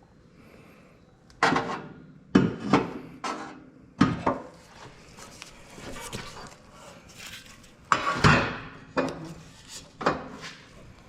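Metal tools and car parts clanking and clinking, about ten separate sharp knocks, irregularly spaced, with the loudest cluster near the start and another a little past the middle.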